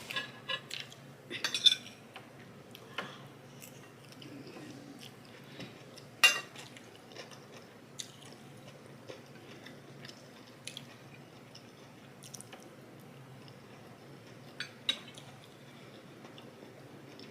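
Cutlery clinking and scraping against a plate now and then, the loudest knock about six seconds in, with quiet chewing between.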